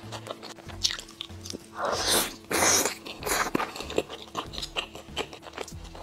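Close-miked eating sounds of a person chewing a meat-filled dumpling: many wet chewing clicks and smacks, with two louder slurping sounds about two to three seconds in.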